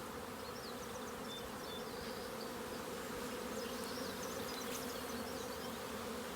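A swarm-like crowd of honey bees flying around their hives, a steady, dense hum: the frantic flight of colonies that were kept in by rain all day.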